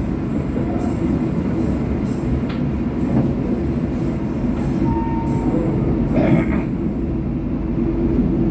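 Argo Cheribon passenger train running, heard from inside a carriage: a steady low rumble of wheels on rail. A faint short whine comes near the middle, and a brief louder rattle about six seconds in.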